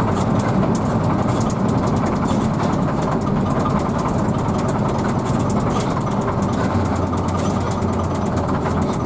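Hino AK bus's diesel engine running steadily, heard from inside the passenger cabin as a low drone with a light rapid ticking above it.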